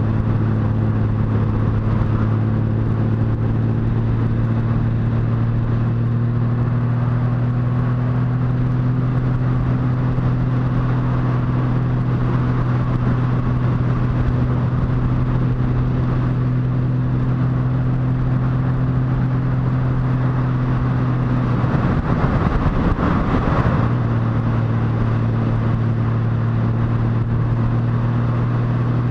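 Motorcycle engine running at a steady cruising speed, its note holding an even pitch. About three-quarters of the way through the note breaks up for a couple of seconds, then settles back to the same pitch.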